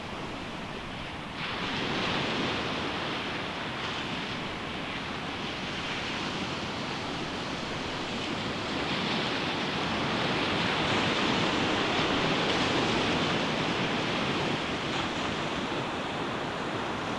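Ocean surf breaking on a sandy beach: a steady rushing wash, with a wave breaking about a second and a half in and the surf building louder through the middle.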